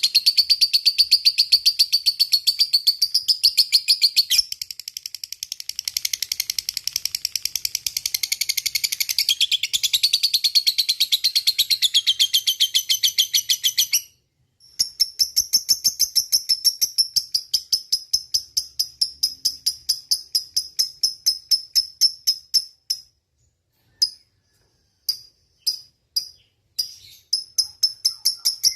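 Lovebird singing its long 'ngekek' chatter: a rapid, unbroken string of shrill chirps that runs about fourteen seconds, breaks off briefly, runs again for about eight seconds, comes in a few short bursts, and picks up again near the end.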